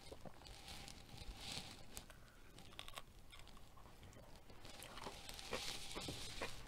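Crunching and chewing of crisp-coated home-made fried chicken: bites into the crust give crackly crunches with small clicks, in two spells, the louder one near the end.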